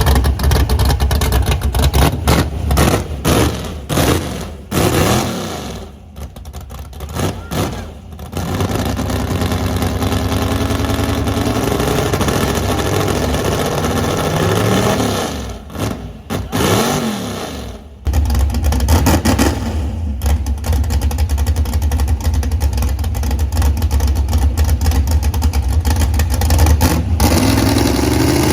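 Truck engine running hard at high revs while being deliberately over-revved to throw a rod. Its speed falls off twice and each time climbs back to a steady high run.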